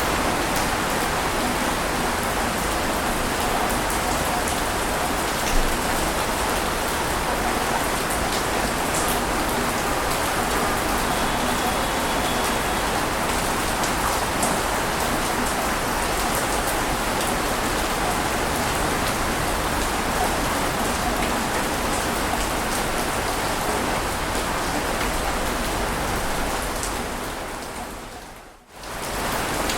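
Steady, even rushing of water with faint scattered ticks and no rise and fall of breaking waves. Near the end it fades down to a brief dip and comes straight back, like the seam of a looped recording.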